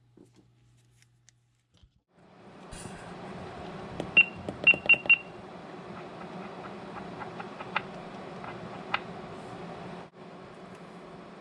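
Toy megaphone switched on about two seconds in: its speaker gives a steady hum and hiss. About two seconds later come four short, high beeps in quick succession as the volume is adjusted, then a couple of faint clicks.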